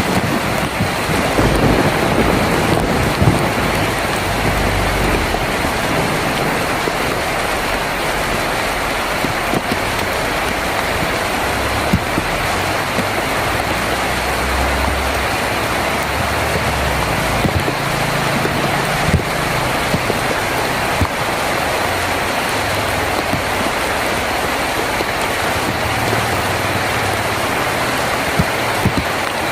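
Heavy rain falling steadily on a tin roof, a dense even patter with occasional louder drop clicks. Low rumbles of distant thunder come and go underneath.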